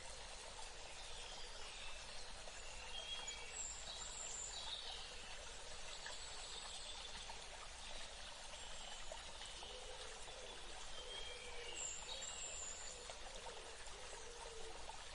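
Water running steadily, as in a small stream. High, short bird calls come in a few seconds in and again about twelve seconds in.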